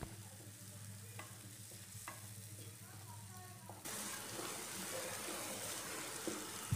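Ground tomato paste frying in hot oil in a non-stick pan, stirred with a utensil, with a few light scrapes and taps against the pan. The sizzling hiss steps up louder about four seconds in. This is the paste starting to cook down in the oil.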